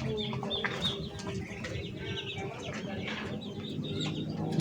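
Birds chirping and clucking, with many short calls overlapping.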